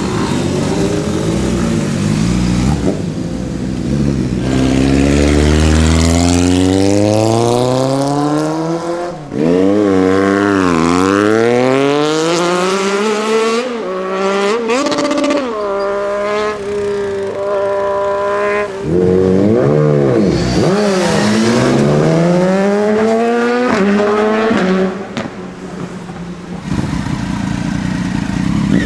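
Sport motorcycle engines accelerating hard, the note climbing, dropping briefly at each gear change and climbing again several times. Bikes pass close by, their note falling as they go.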